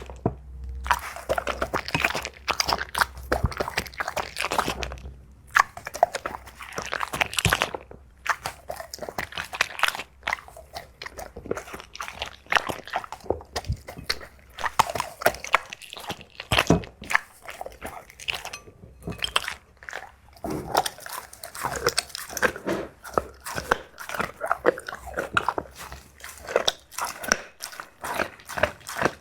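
A dog eating greedily, crunching and chewing its food in a fast, irregular run of bites.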